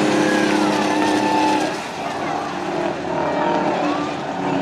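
Racing semi trucks' engines running hard on a dirt track, their pitch falling and rising as the trucks pass, with two brief dips in loudness.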